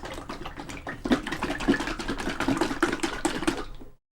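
Water splashing and trickling in an irregular patter, growing louder about a second in, then cutting off abruptly near the end.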